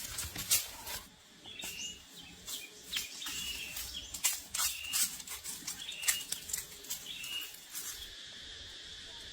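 A bird giving a short chirping call about once a second, over irregular sharp clicks and knocks. A steady high-pitched insect drone comes in near the end.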